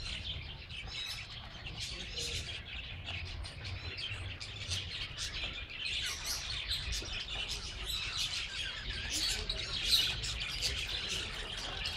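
Many small birds chirping at once: a continuous chatter of short, high calls, busier from about halfway through.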